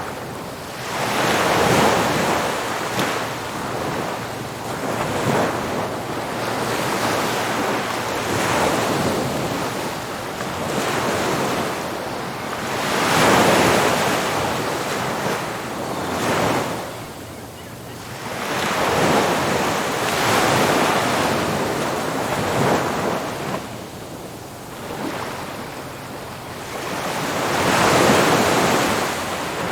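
Ocean surf: waves breaking and washing onto a beach in repeated surges a few seconds apart, each swelling and fading. The loudest breakers come about two seconds in, near the middle and near the end.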